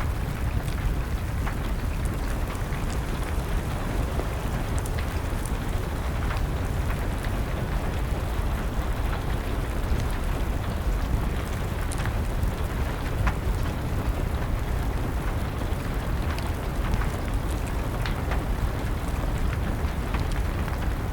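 Steady rain with a low, even rumble, dotted with scattered sharp crackles and pops from a burning wood fire.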